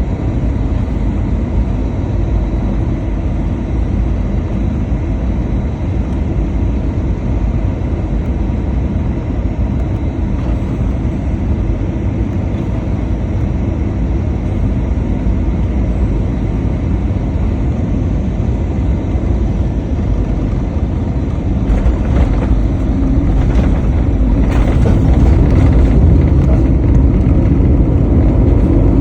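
Airliner cabin noise during landing: a steady low roar of engines and airflow. About three quarters of the way through it turns louder and rougher, with rattling, and builds toward the end.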